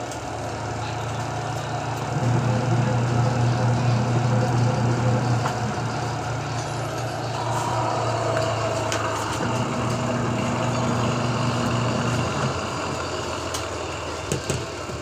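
Washing machine's newly fitted motor running with a steady low hum that swells and eases in two spells, with a few sharp clicks near the end.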